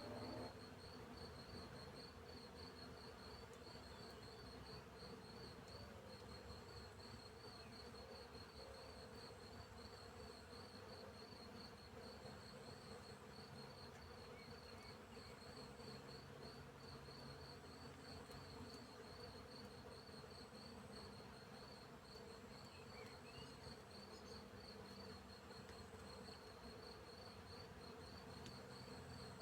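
Faint field insects: crickets chirping in a steady, evenly repeating high pulse, over the low steady buzz of bees.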